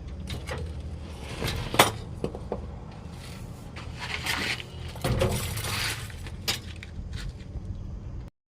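Metal clinks and knocks over a steady low hum, with one sharp strike a little under two seconds in and scraping stretches in the middle; the sound cuts off suddenly near the end.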